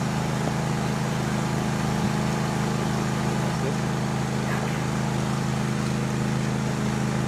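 Steady low engine drone under a constant hiss, with faint voices in the background.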